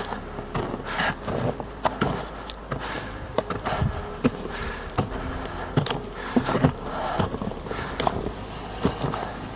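Footsteps crunching in snow: irregular crunches and clicks about once or twice a second, over a faint steady hum.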